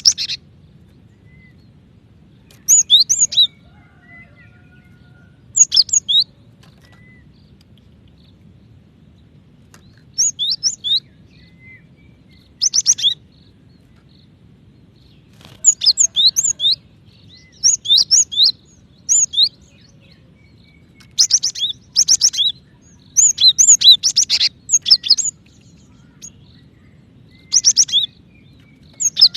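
Female cinereous tit calling for a male: short bursts of quick, high chirping notes, repeated every few seconds. The bursts come more closely bunched through the middle and latter part.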